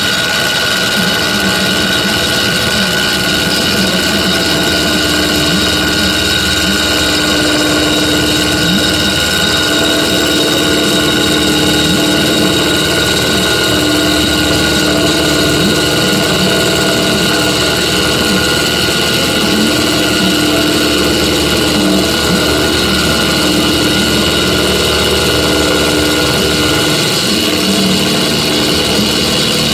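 Metal lathe running steadily while machining a steel stud, a constant machine whine made of several steady tones.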